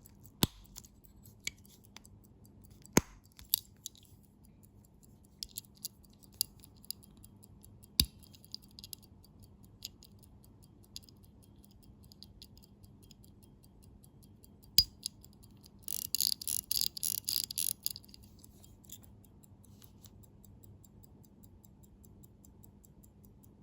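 Small metal clicks and taps from handling an antique Omega pocket watch and its parts, a few of them sharp and loud. About two-thirds of the way through comes a quick run of rapid high clicks lasting about two seconds.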